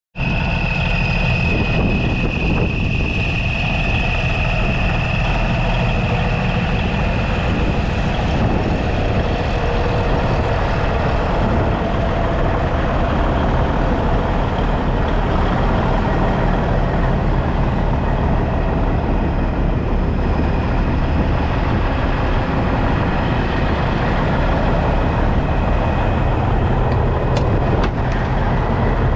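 International road tractor's engine running steadily, with no revving, and a high thin whine over it that fades after the first few seconds.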